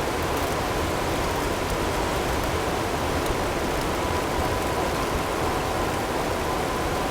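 Steady blizzard ambience of wind with hail ticking, and a faint steady tone running underneath.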